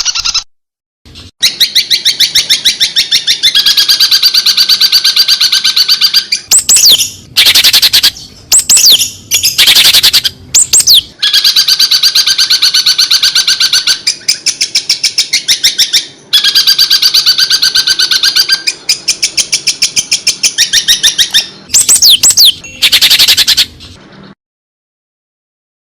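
Small songbird singing in long, very fast, high trills, broken up by shorter bursts with quick falling whistles. The song stops a little before the end.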